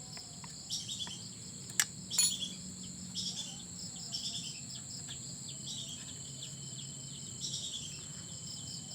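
Steady high insect trilling with short descending bird calls repeating every second or so. Two sharp clicks sound about two seconds in.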